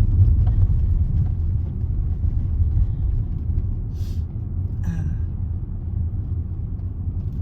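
Car cabin noise while driving on a main road: a steady low rumble of tyres and engine. A brief hiss about four seconds in.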